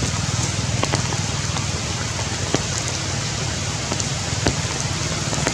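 Heavy rain falling on tree leaves: a steady hiss with scattered sharp drip taps over a low steady rumble.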